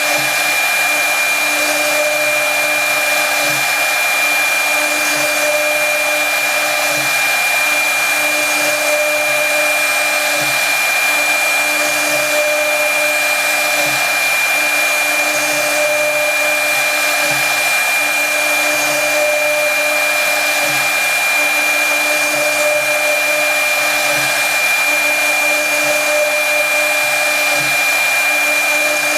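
Brushless spindle of a CNC router running at high speed and cutting wood: a steady high-pitched whine over a continuous hiss of cutting. A lower hum rises and falls about every second and a half to two seconds as the work goes on.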